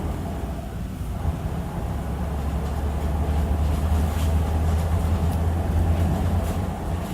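Engine of a 2006 Hyundai Aerocity 540 city bus running with a steady low drone; it eases off briefly about a second in, then picks up again.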